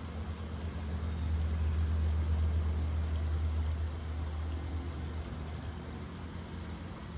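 Low engine rumble of a distant motor vehicle, growing louder about two seconds in and slowly fading away.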